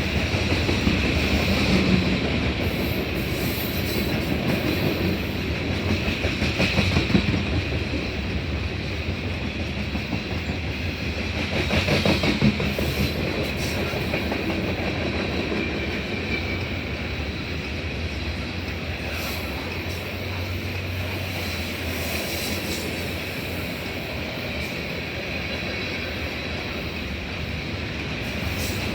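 A train rolling past: a steady rumble of wheels on the rails with clattering over the rail joints, a little louder three times in the first half, and a thin high tone from the wheels running through it.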